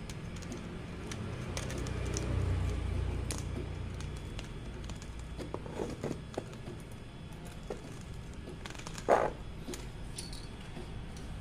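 Light clicks and rattles of small hard parts being handled, with one louder knock about nine seconds in, over a low steady hum.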